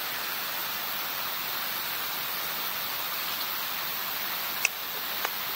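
A steady rushing hiss, with two short, sharp clicks near the end.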